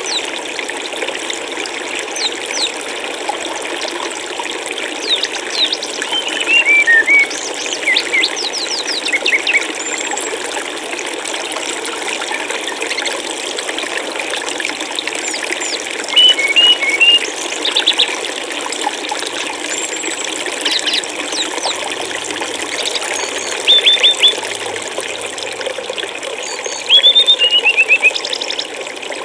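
Steady rushing of flowing stream water, with a small songbird singing short phrases of high chirps over it every few seconds, some phrases falling in pitch note by note; the loudest phrases come about a quarter in, midway and near the end.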